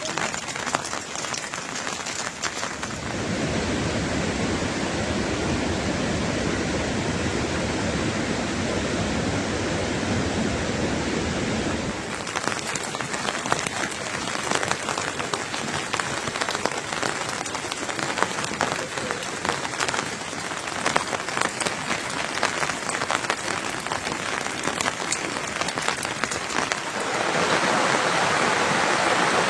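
Steady rain falling, with many separate drop hits sounding through it. The rain changes character abruptly a few times, heavier and deeper for a stretch, then brighter near the end.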